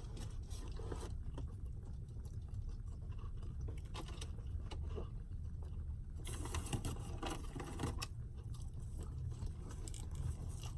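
A person chewing and biting into a fried chicken sandwich, with small clicks and a rustle of handling about six seconds in, over a steady low rumble.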